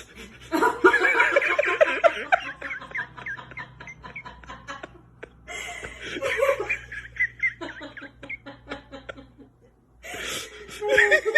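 A person laughing hard in rapid fits, with a short break about five seconds in before the laughing starts again.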